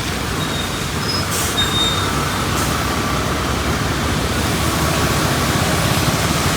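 Steady traffic noise on a busy rain-wet road: vehicle engines rumbling and tyres hissing on wet pavement, with a faint steady whine joining about two seconds in.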